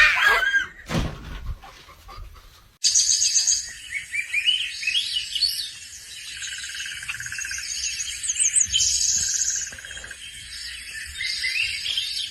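Small birds chirping and twittering busily, many quick calls and trills overlapping, starting abruptly about three seconds in. Before that come two loud short calls that slide down in pitch.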